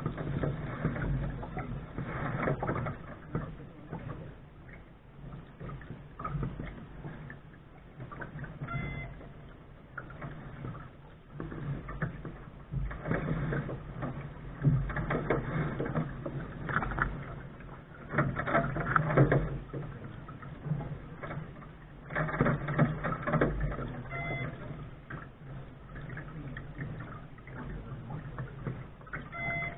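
Water rushing and slapping at the bow of a Lark sailing dinghy under way, with wind on the microphone, swelling in irregular surges every few seconds.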